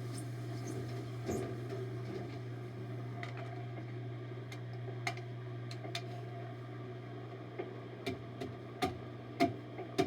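Washing machine in its spin cycle, running with a steady hum and rumble, badly off balance. Sharp knocks break in now and then and come more often and louder over the last few seconds.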